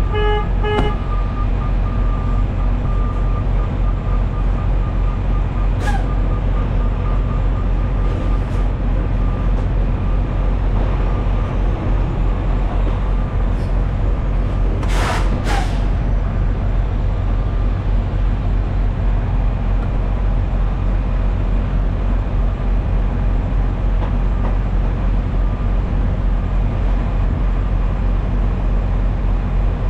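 Semi-truck diesel engine running steadily at low speed, heard from inside the truck. A short pitched beeping sounds at the very start, and about halfway through there are two short bursts of air hiss from the air brakes.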